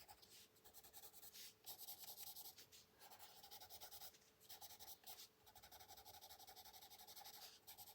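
Faint scratching of a colored pencil shading on paper, in repeated back-and-forth strokes with short pauses between them.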